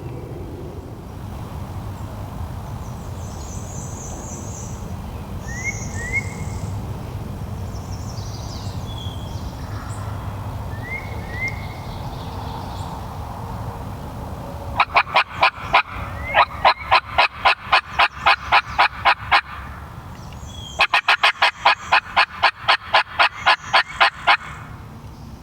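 Two long runs of loud, rapid turkey yelps, about three or four a second, the first lasting about four and a half seconds and starting about fifteen seconds in, the second about three seconds long after a short pause. Before them, faint songbird chirps over a steady low rumble.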